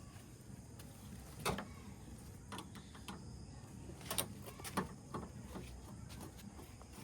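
A few sharp clicks and knocks from installation work, one about a second and a half in and two close together around four to five seconds in, over low background noise.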